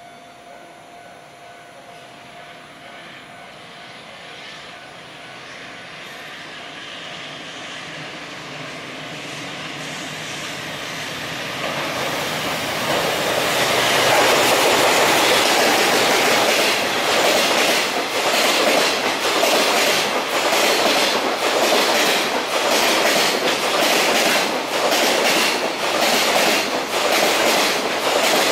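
Container freight train hauled by a JR Freight electric locomotive, growing steadily louder as it approaches and reaching full loudness as the locomotive passes about halfway through. The wagons follow with a rhythmic clickety-clack of wheels over the rail joints.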